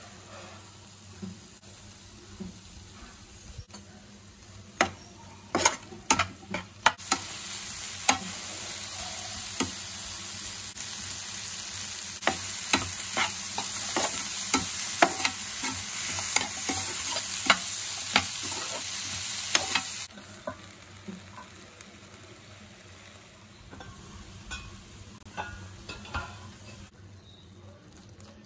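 Chopped onions, tomatoes and cashews sizzling in a non-stick frying pan as a spatula stirs them, with sharp clicks and taps of the spatula against the pan. The sizzle grows louder about a quarter of the way in and drops back sharply about two-thirds through.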